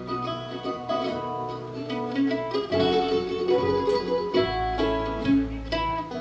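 Live bluegrass band playing an instrumental break: quick picked acoustic string notes over a moving low line, with no singing.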